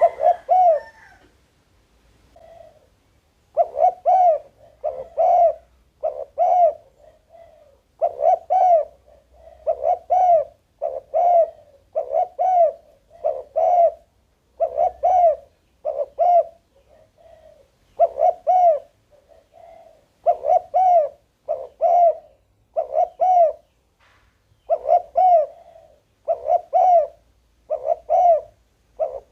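Spotted dove cooing: a long run of soft, arched coos, about one a second, broken by a few short pauses.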